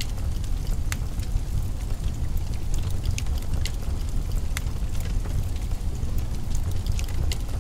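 Wood fire crackling in a fireplace: irregular sharp pops and snaps, a few every second, over a steady low rumble.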